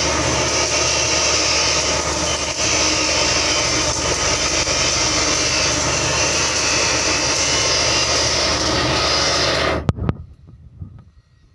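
Firework fountain spraying with a loud, steady hiss that cuts off suddenly near the end, followed by a couple of faint clicks.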